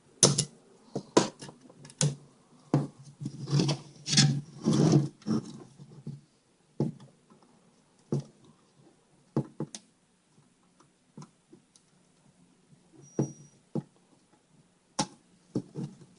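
Irregular clicks, taps and scraping of tools and hands working a TV power circuit board while a capacitor is desoldered and pulled off. The sounds are busiest in the first six seconds, then come as scattered single clicks.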